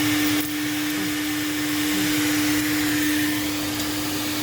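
Car wash vacuum running: a steady motor hum with a rush of air, dipping slightly about half a second in.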